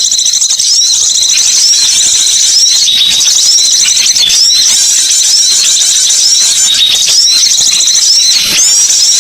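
Lure recording of wild songbirds: dense, shrill high-pitched chatter with a short swooping chirp recurring every second or so.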